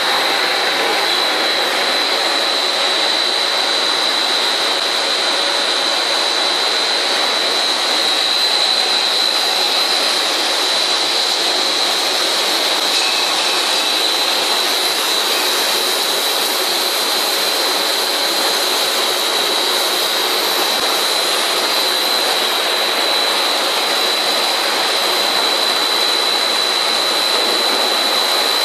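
Twin-screw food extruder production line running: a steady, loud machine noise with a constant high-pitched whine on top.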